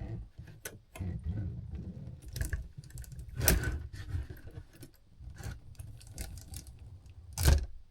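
Irregular metallic clicks and clinks from a Seth Thomas clock movement as its mainspring is let down slowly with a let-down tool, releasing the spring's power. Two louder clicks stand out, about three and a half seconds in and near the end.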